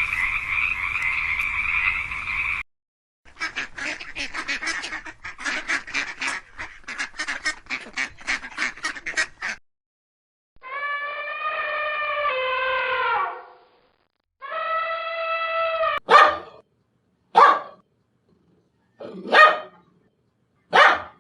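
A run of separate animal calls: a steady chorus that cuts off about two and a half seconds in, then several seconds of rapid, repeated short calls, two long drawn-out calls, and four short sharp calls a second or two apart near the end.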